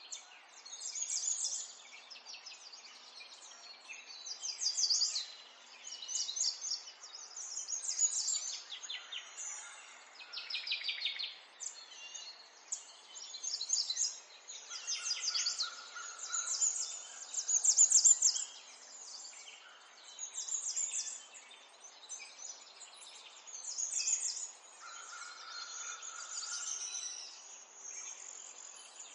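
Birds singing: bursts of high, rapid chirping trills every second or two, with a few held whistled notes, over a faint steady hiss.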